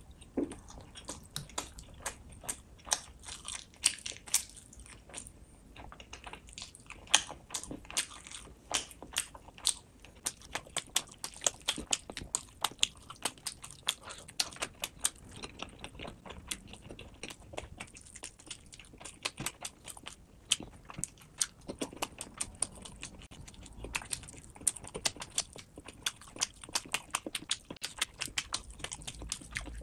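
Close-miked chewing of fish and rice eaten by hand: wet mouth clicks and lip smacks, a few a second in an uneven run.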